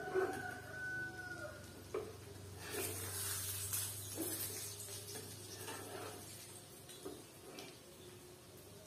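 A rooster crows once at the start, a single held call. A steady low hum runs underneath, with scattered knocks and a short burst of hiss about three seconds in.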